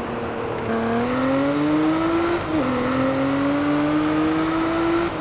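2024 Nissan Z Nismo's twin-turbo V6 accelerating through the gears: its pitch climbs steadily, drops sharply at an upshift about two and a half seconds in, then climbs again until another upshift at the very end.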